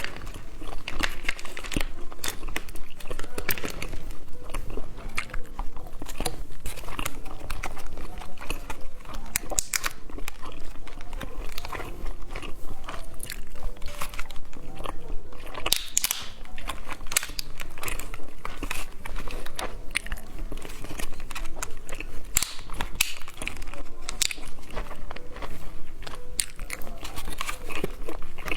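Close-miked mouth sounds of biting and chewing a peelable grape candy: a dense run of wet clicks and crunches throughout.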